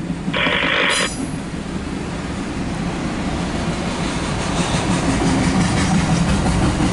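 Loaded autorack freight cars rolling past, a steady rumble and rattle of wheels and car bodies, muffled through the car's windshield. A short burst of hiss comes in the first second.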